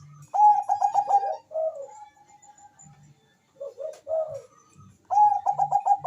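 Bangkok-bred zebra dove (perkutut) cooing: three phrases, each a quick run of rolling notes, with pauses between them.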